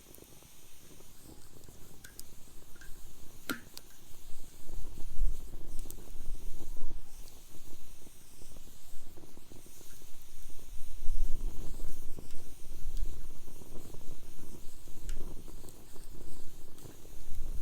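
Wood fire crackling in a fire pit, with a few sharp pops, the loudest about three and a half seconds in, over a low rumble that swells after a few seconds.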